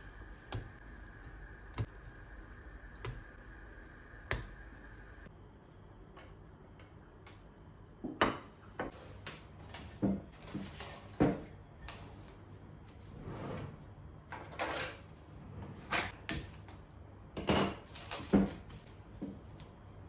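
Kitchenware being handled: scattered knocks and clatters, a few faint clicks at first, then frequent sharper knocks through the second half.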